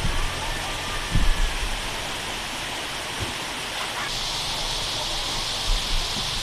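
Steady rushing hiss of water from a single-drop waterfall about 40 m high, with a few low thumps in the first second and a half; the tone of the rush shifts slightly about four seconds in.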